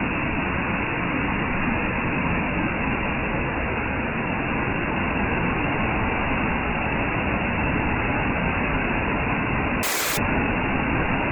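Steady, loud rushing noise with no clear tone or rhythm, briefly cutting out about ten seconds in.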